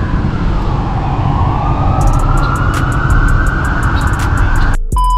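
Emergency-vehicle siren wailing, its pitch slowly falling and then rising again, over a heavy low rumble of road traffic. Near the end it cuts off suddenly and a steady high tone takes over.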